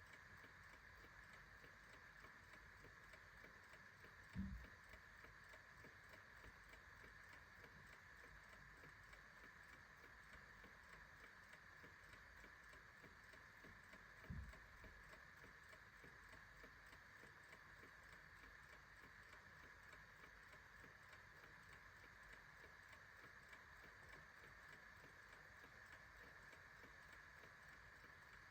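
Faint steady ticking of a clock, with two soft low thumps, one about four seconds in and another about ten seconds later.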